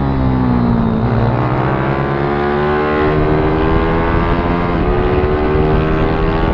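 Pit bike's small single-cylinder engine running hard: the revs drop briefly about a second in, then climb steadily as it accelerates and hold high.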